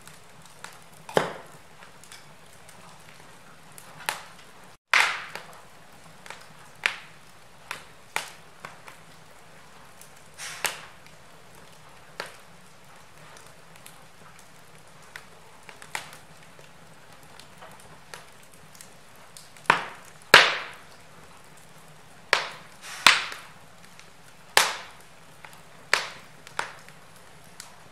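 Wood fire burning in a fireplace, crackling: irregular sharp pops and snaps from the burning logs over a soft steady hiss, with the loudest snaps about two-thirds of the way through. The sound cuts out for an instant about five seconds in.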